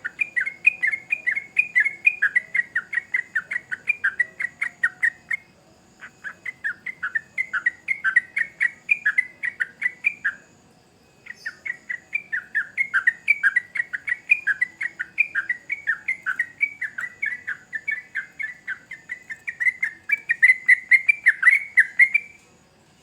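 Yellow-vented bulbul singing a long chattering song of rapid, repeated notes, about four a second. It comes in three runs broken by short pauses, and the last run is the longest and loudest near its end.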